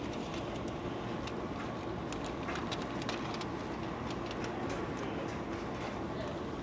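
Steady mechanical running noise with a faint hum and a few scattered light ticks.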